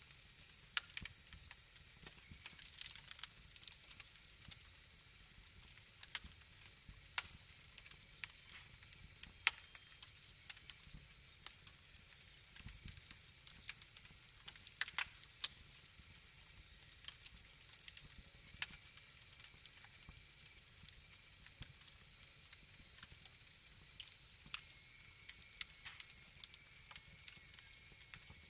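Wood fire crackling: irregular sharp pops and snaps over a low hiss, a few of them louder, with a faint thin whistle coming in near the end.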